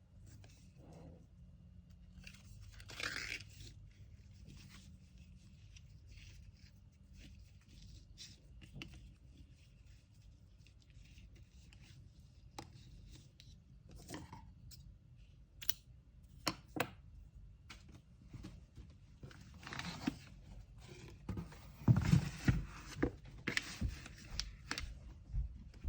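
Packaging being handled by hand: paper rustling and tearing, with scattered light clicks and taps. Near the end comes a busier stretch of rustling with several soft knocks on the table.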